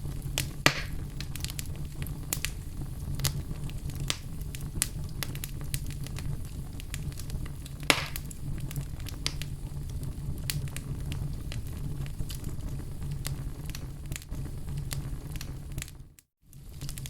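Fire burning in a fireplace, crackling steadily over a low rumble, with many small sharp pops and two louder ones, one just after the start and one about halfway. Near the end the sound briefly cuts out, then comes back.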